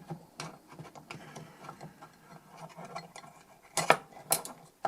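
Light clicks and small metallic knocks of tools and parts being handled during the disassembly of a metal DI box, with two sharper clicks close together near the end.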